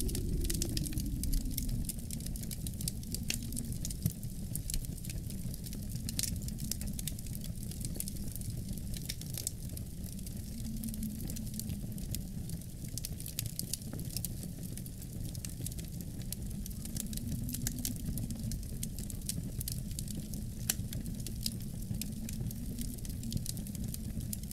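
Wood fire crackling in a fireplace, with many small irregular pops and snaps, over a low steady wind that slowly rises and falls in pitch.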